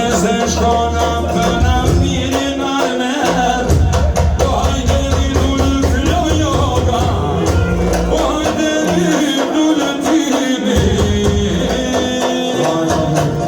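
Tallava music played loud: a sung melody over a band with a heavy bass line and a regular beat.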